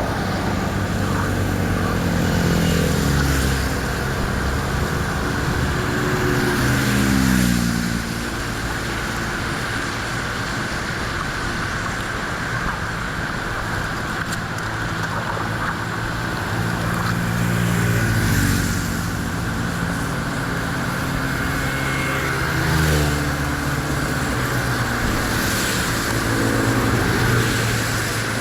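An engine running steadily, its pitch sagging and recovering several times, around 6 to 8 seconds in, near 19 and 23 seconds, and again near the end.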